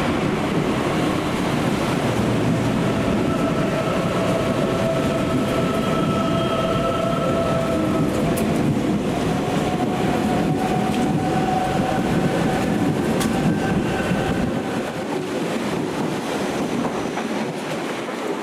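ICE high-speed train running along the platform: a steady heavy rumble of wheels on rail with a faint squealing tone held over it and a few sharp clicks. The noise dies down over the last few seconds.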